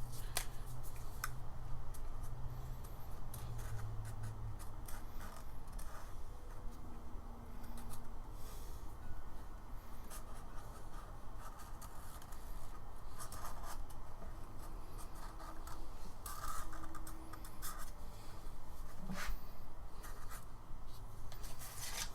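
Scratching and rustling from gasket paper being worked by hand, with scattered small clicks and taps.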